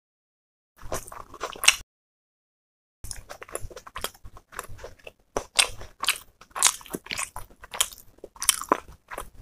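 Close-miked eating: crunchy bites and wet chewing of a mouthful of curry, chillies and onion, with crisp clicks in quick bursts. The sound drops to dead silence twice in the first three seconds, then runs on with loud crunches from about three seconds in.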